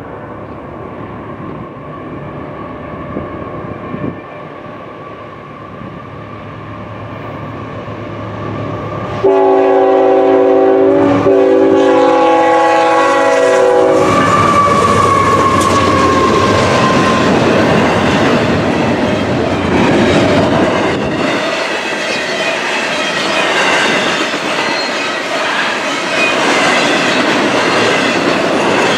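A CSX diesel-hauled freight train approaches a road crossing, its rumble slowly growing. The locomotive horn sounds for about five seconds near the middle, with a short break. Then the locomotives pass close by, followed by double-stack container cars rumbling and clacking over the rail joints.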